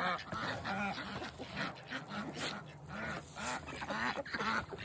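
Ducks quacking, a steady string of short calls one after another.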